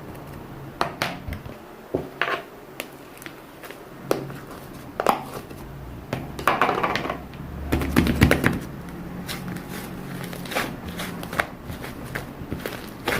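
Objects being handled close up: irregular clicks and taps with crinkling, and a longer stretch of rustling about halfway through.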